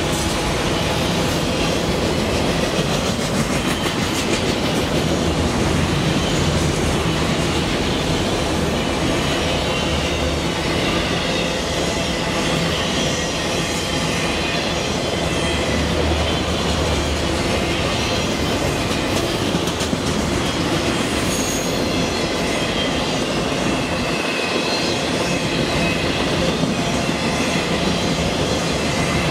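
Freight train of enclosed autorack cars rolling past, with a steady rumble and clatter of steel wheels on the rails.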